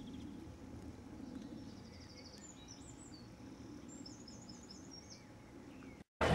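Small birds chirping in quick repeated high phrases, loudest in the middle, over a faint steady low background rumble outdoors. The sound cuts off abruptly just before the end.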